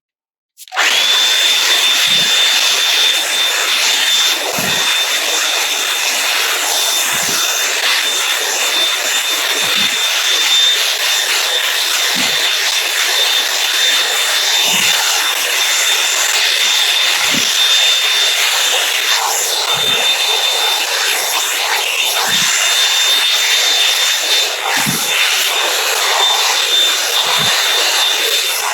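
Revlon One Step hot-air brush dryer switched on about a second in, then blowing steadily with a high whine. Low bumps come about every two and a half seconds.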